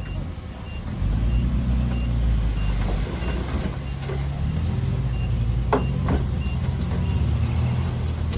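Heavy earthmoving machinery's diesel engine running, growing louder about a second in, with a reversing alarm beeping steadily over it. Two sharp metal clanks come about two-thirds of the way through.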